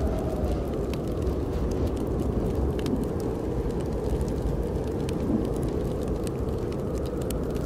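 Snowstorm wind blowing steadily, a low rushing howl that slowly shifts in pitch, with the scattered sharp crackles of a wood fire burning in a fireplace.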